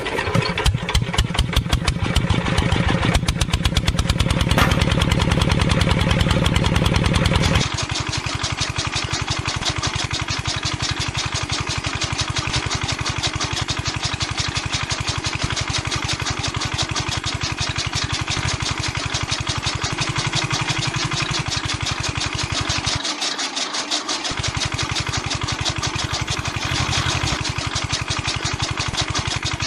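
Small engine running with a rapid, even beat. About eight seconds in, the sound shifts to a lighter, steadier note and keeps running.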